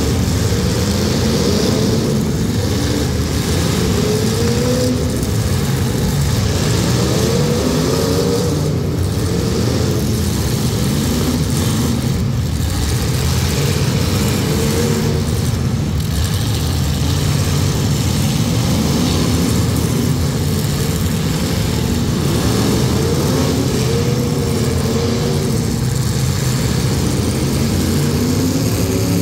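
Several demolition derby cars' engines running and revving together, a continuous loud din whose pitch keeps rising and falling as the drivers rev.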